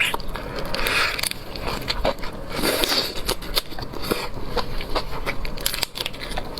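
Close-miked chewing and crunching of seafood, with many short clicks and smacks.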